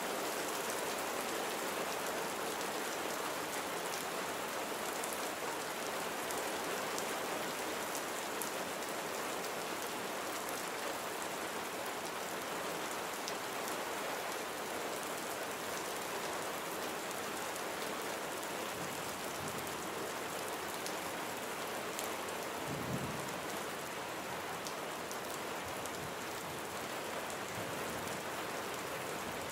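Steady rain falling: a dense, even hiss with scattered sharper drop ticks, and one brief low thump about three quarters of the way through.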